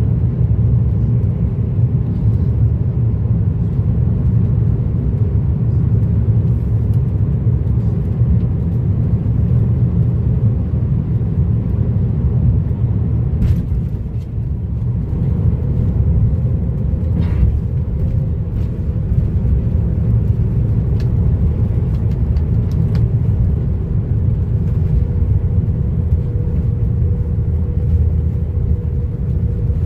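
Steady low rumble of an airliner's engines and wheels heard inside the cabin as the plane rolls on the ground after landing, with a couple of brief faint clicks about halfway through.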